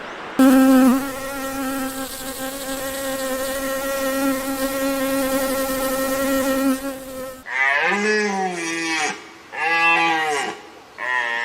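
An insect buzzing steadily at one pitch close by for about seven seconds. It stops suddenly and gives way to cattle mooing, a run of short repeated calls, each rising and falling.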